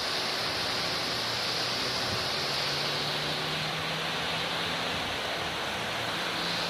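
Heavy downpour and rushing storm water: a steady, unbroken hiss.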